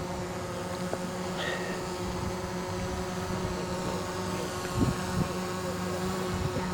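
Radio-controlled model airplane motor running at a steady buzzing pitch, with wind gusting on the microphone about five seconds in.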